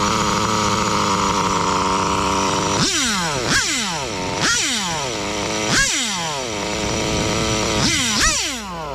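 Serpent Nova Mega SX21 nitro RC engine running steadily. About three seconds in, the throttle is blipped several times, roughly once a second, and each rev shoots up and winds back down while the idle is being set.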